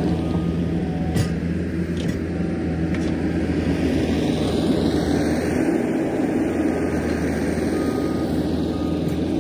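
Diesel engine of a piece of earthmoving equipment running steadily, with a few faint knocks in the first few seconds.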